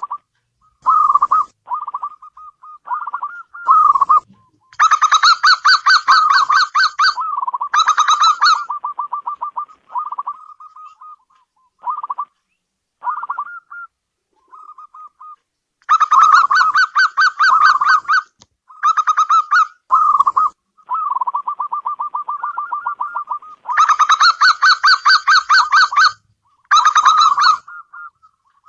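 Zebra dove (perkutut) cooing: runs of rapid trilled coos with short pauses between them, and several louder, harsher phrases lasting a second or two.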